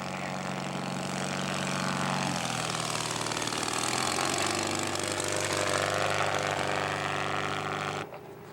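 Quarter-scale radio-controlled model airplane's spark-ignition engine running steadily in flight. Its pitch drops a little about two seconds in, and the sound cuts off suddenly near the end.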